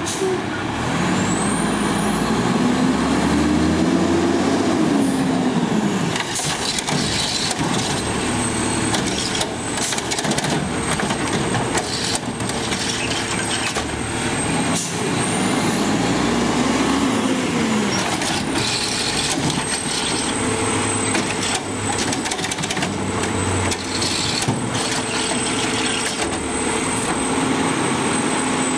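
Garbage truck at work: its engine revs up and falls back twice to drive the hydraulics, over a high hydraulic whine, with repeated metallic clanks and bangs from the lift and body.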